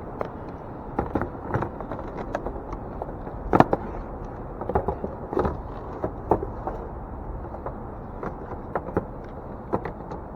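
Irregular clicks and knocks of a jump pack's clamps and cables being handled and attached at a car battery, the loudest about three and a half seconds in, over a steady low background rumble.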